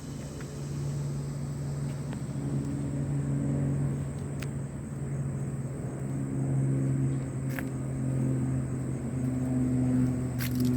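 Steady low engine hum, its pitch drifting slightly, with a thin steady high whine over it and a few sharp clicks.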